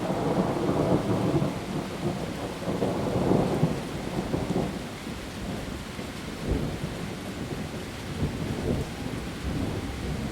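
Heavy rain falling on leaves, with a low rolling rumble that swells over the first four seconds and then eases back to a steady downpour.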